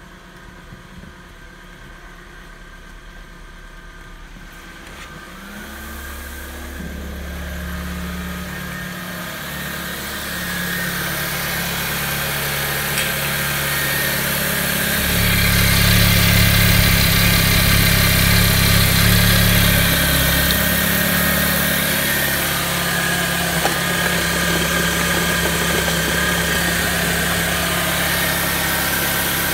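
BMW M43B19 1.9-litre four-cylinder petrol engine idling steadily at about 1000 rpm. It is first heard faintly from inside the car, then louder and closer as the microphone moves into the open engine bay.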